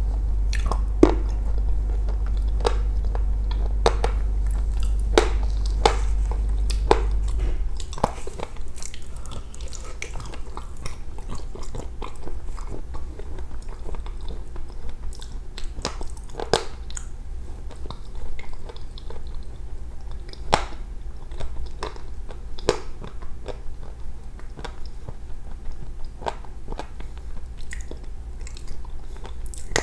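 A person biting into and chewing chunks of soaked chalk close to a clip-on microphone, with crunchy bites at irregular intervals. A low steady hum underneath stops about eight seconds in.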